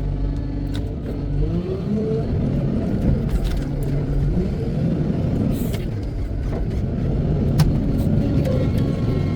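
Heavy diesel engine of a wheel loader idling, then revving up about a second in and running hard with a low rumble, with a few sharp knocks along the way.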